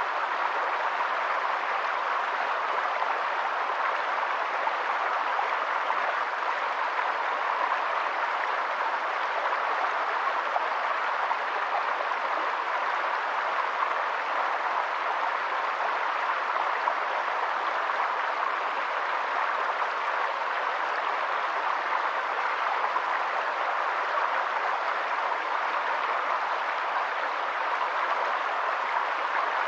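Steady, even rush of water with no breaks or changes.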